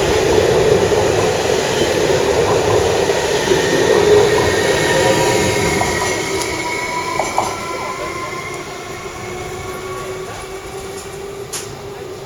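Electric train running on the rails with a steady whine and a light wheel squeal, its sound fading steadily as it moves away. A single sharp click near the end.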